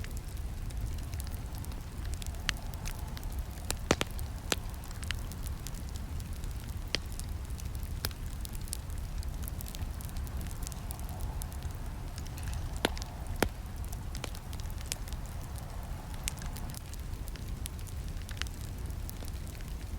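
Wood campfire crackling, with irregular sharp pops and snaps over a steady low rumble of the burning fire; the loudest snaps come about four seconds in and again around thirteen seconds.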